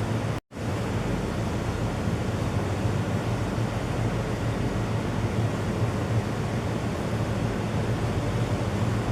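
Steady rushing background noise with a low hum, cutting out completely for a moment about half a second in.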